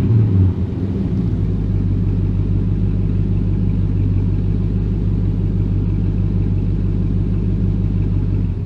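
1981 Chevy K10's 5.7-litre V8 through SpinTech dual mufflers, settling back from a blip of the throttle in the first half second, then idling steadily.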